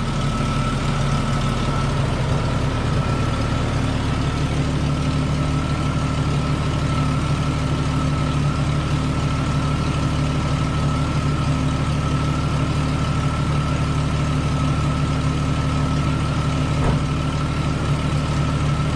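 1998 Jeep Cherokee XJ engine idling steadily, with a thin, steady high whine above it.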